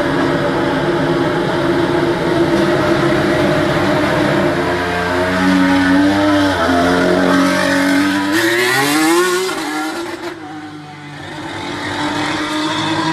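Alpine A521 Formula 1 car's 1.6-litre turbocharged V6 hybrid engine running on track, its pitch stepping down through downshifts, then a sharp rise in revs about eight seconds in. It cuts back and drops away about ten seconds in, then builds again near the end.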